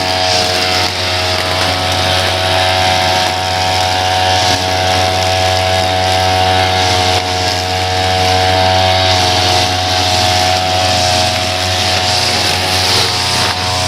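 Small petrol engine of lawn-care equipment running steadily at one unchanging speed.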